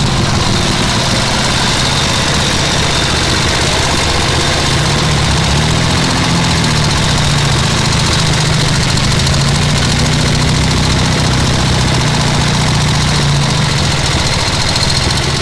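A motorcycle engine idling steadily, its note wavering a little up and down.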